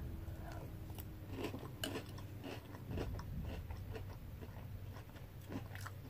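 A person chewing a mouthful of French toast cereal in milk: faint, soft crunches at irregular intervals.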